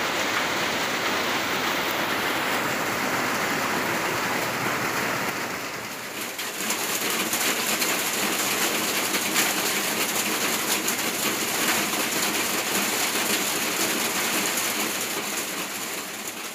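Steady rain falling. About six seconds in, the sound dips briefly and then turns into a brighter, crisper patter of many drops striking a hard surface.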